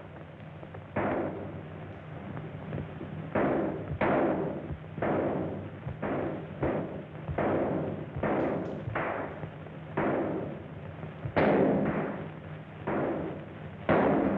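A run of about a dozen sharp bangs, spaced irregularly about a second apart, each with a short echoing tail, over a steady low hum of an old film soundtrack.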